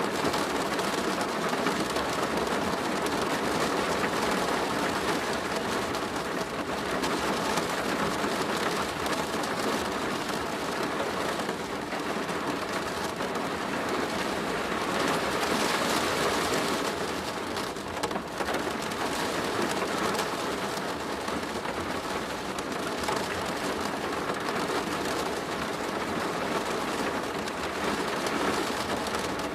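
Steady heavy rain drumming on a plastic roof, a dense even patter of drops.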